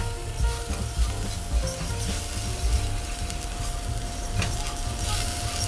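Rice sautéing in a pot on a gas stove: a steady light frying sizzle with a few small clicks, the refogado stage of cooking the rice.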